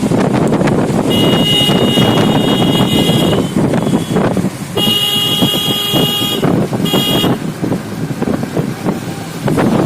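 Vehicle running along a road with steady road and engine noise, and a horn sounding three times: a long blast about a second in, another at about five seconds, and a short toot near seven seconds.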